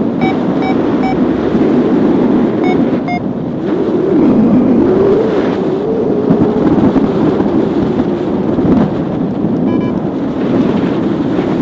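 Strong wind rushing over the microphone in paragliding flight. A variometer beeps briefly: three short beeps, then two more within the first three seconds, and a single higher beep near the end, the sound of the wing in rising air.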